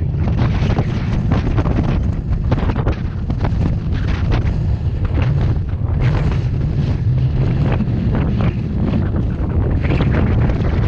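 Strong mountain wind buffeting the microphone: a loud, steady low rumble with constant gusty flutter.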